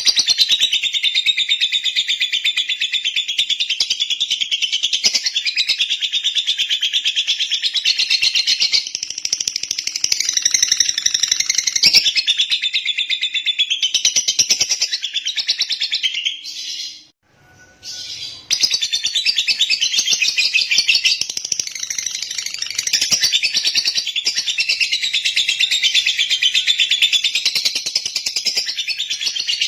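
Lovebird singing in a long, unbroken run of rapid, high-pitched chattering trills. It stops for about a second a little past the middle, then starts again just as before.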